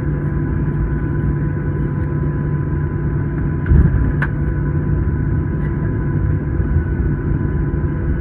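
Cabin noise inside a Boeing 737-900 taxiing after landing: a steady low rumble from the engines and air system, with a faint steady whine over it. A bump is heard about four seconds in.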